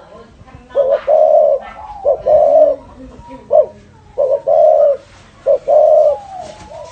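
Spotted dove cooing: a series of low, repeated coos, each phrase a short note followed by a longer held one, coming about four times with short pauses between.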